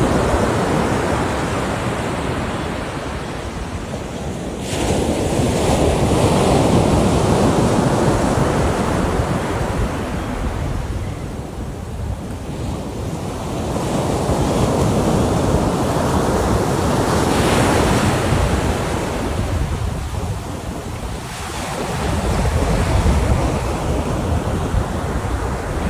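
Ocean surf on a beach: waves breaking and washing in, rising and falling in slow surges. A new wave breaks every several seconds, with a sharp crash about four and a half seconds in.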